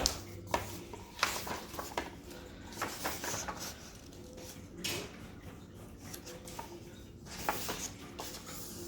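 Handling noises from a picture book, its pages being turned: scattered soft clicks, taps and rustles, with a sharper click at the start.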